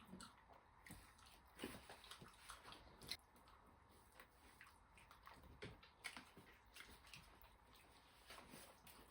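Faint chewing and eating sounds from a cheeseburger and chips meal: scattered soft bites, crunches and mouth clicks.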